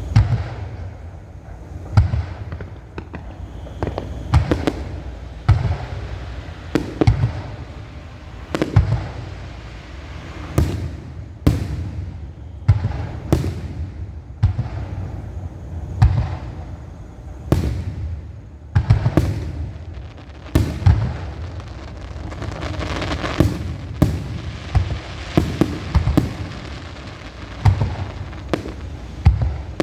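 A fireworks display: aerial shells bursting in a steady series of sharp booms, one or two a second and sometimes in quick clusters, over a continuous low rumble. The bangs come thicker in the second half.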